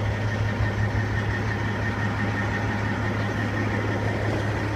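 Cat C15 diesel engine of a Peterbilt 379 idling steadily, a constant low hum with a faint high tone above it.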